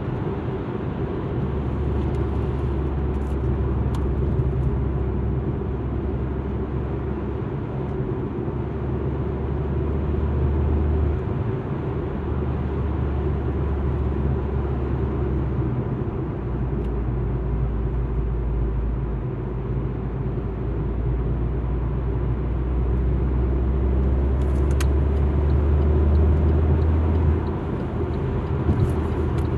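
Alfa Romeo MiTo driving, heard from inside the cabin: engine and tyre noise with a deep drone that shifts in level a few times.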